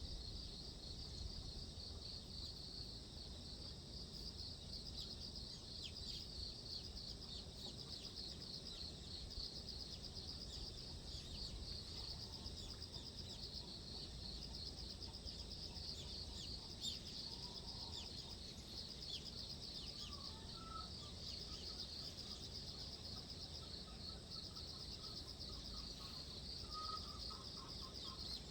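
Insects trilling in a continuous high, fast-pulsing chorus over a low steady outdoor rumble. Brief bird chirps come and go in the middle, and in the last third a bird calls in short repeated phrases at a lower pitch.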